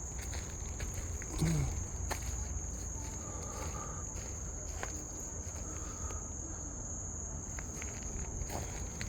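Steady high-pitched trilling of night insects, with footsteps scuffing along a trail. A brief low sound comes about a second and a half in.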